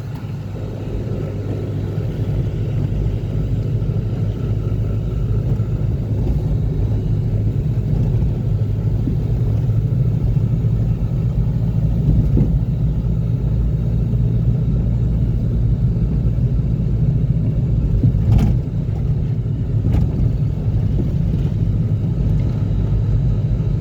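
A motor vehicle being driven, giving a steady low rumble of engine and road noise, with two short sharp knocks near the end.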